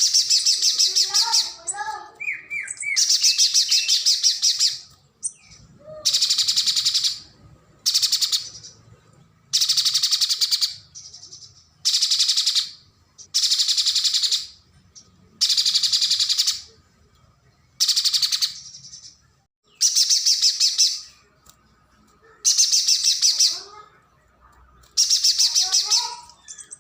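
Pijantung gunung (spiderhunter) singing a loud, fast, high trill in repeated phrases, each about a second long, about every two seconds. A fainter, lower chirping bird calls briefly near the start and near the end.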